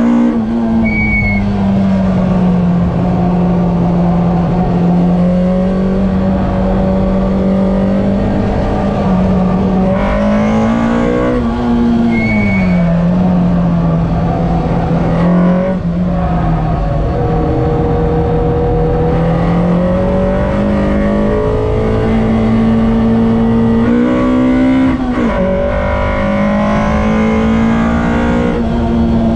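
A tuned Citroën Saxo VTS engine heard from inside the cabin while lapping a circuit, its revs climbing, holding and dropping with gear changes and braking. A brief high chirp comes about a second in and again about twelve seconds in.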